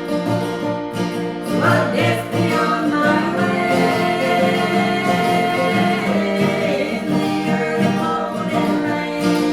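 Folk song played on acoustic guitar with singing, long sung notes held over the strummed chords.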